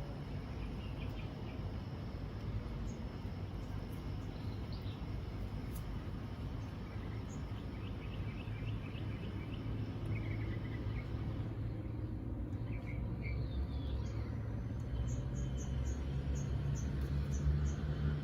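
Outdoor ambience: a steady low rumble with scattered faint bird chirps, and a quick run of high, short chirps, about four a second, in the last few seconds.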